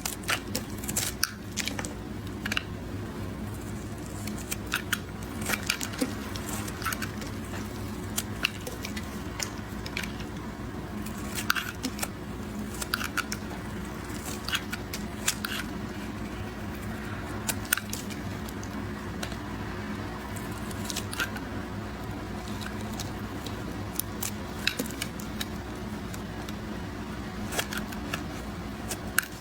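A knife cutting through a bar of soap into cubes, giving irregular crisp snaps and crackles as the blade breaks through. A steady low hum runs underneath.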